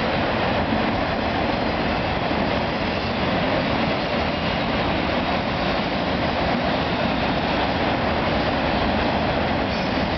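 CN freight train of auto-rack cars rolling past at speed: a steady, even rush of wheel and rail noise with no break.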